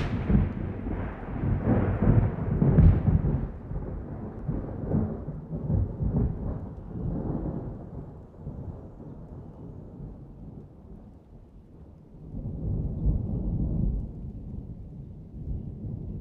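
Thunder rolling: a deep rumble that slowly fades over several seconds, then swells into a second rumble about twelve seconds in.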